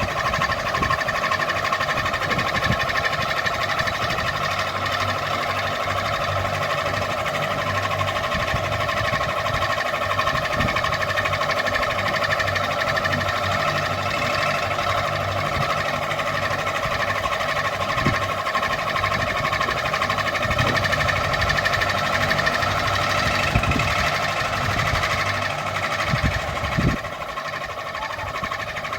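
Ceiling fan running steadily, an even whirring hum with a few low thumps; it turns a little quieter near the end.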